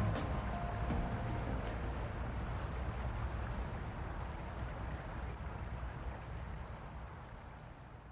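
Crickets chirping at night: a steady high trill with a second chirp pulsing about four to five times a second, over a low rumble, fading out near the end.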